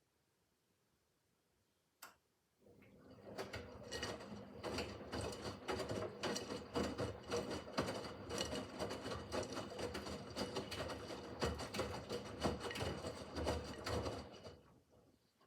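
Miele W5801 WPS washing machine drum turning in the Easy Care 30 °C wash: a single click, then about twelve seconds of motor hum with dense rattling and clicking, stopping shortly before the end.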